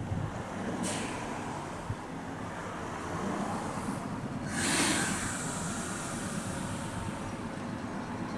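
Nose Electric Railway 1700 series electric train at the platform with a steady low rumble. A short hiss of compressed air comes about a second in, and a louder, longer air release follows around the middle.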